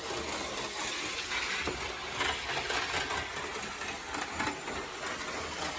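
OO gauge model Class 55 Deltic locomotive running round the layout: a steady mechanical whirr with light ticking of wheels over the rails.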